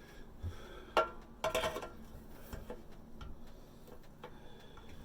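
Metal hand tools clinking and clanking as they are rummaged through: a sharp click about a second in, then a cluster of ringing metallic clanks, with a few fainter knocks later.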